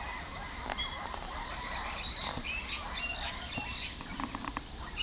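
A few short bird chirps and whistles, clustered about halfway through, over a steady outdoor background with small clicks.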